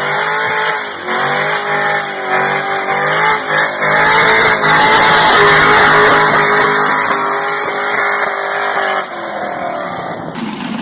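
A muscle car's V8 engine revving up and down several times, then held at high revs, loud and rough, for about five seconds before dropping back near the end.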